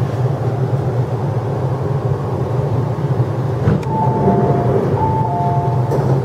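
Interior running noise of an MTR East Rail Line R-train running in along a station platform: a steady low hum and rumble. A little over halfway in, two short pairs of clear high tones sound, one after the other.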